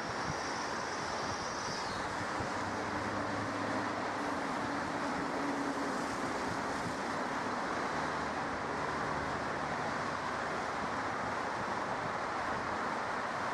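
Steady wind noise on the microphone over a distant jet aircraft's engine noise, with a faint high whine that drops away about two seconds in.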